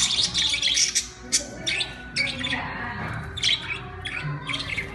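Budgies chirping and squawking in a quick string of short, high calls.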